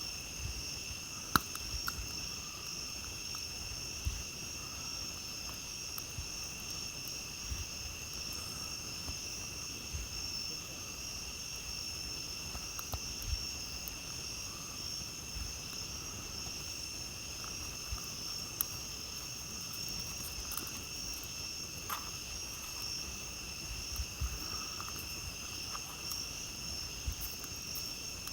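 Steady, unbroken chorus of crickets and other night insects, with a campfire crackling now and then in short sharp pops, the loudest about a second in.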